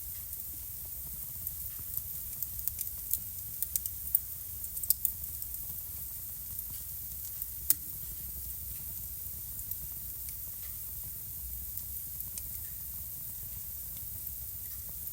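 Wood fire burning in a fireplace: a steady hiss and low rumble with sharp crackles and pops, frequent in the first few seconds and sparser after, one loud pop near the middle.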